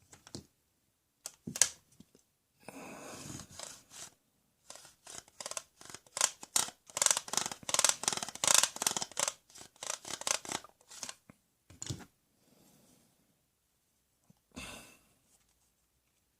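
Scissors snipping in an irregular run of quick cuts, with some scraping, densest in the middle.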